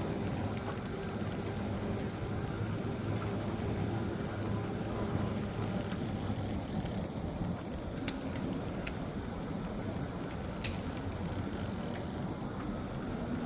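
E-bike riding noise: steady tyre rumble and wind on the microphone, with a low hum and a few sharp clicks from about eight seconds in.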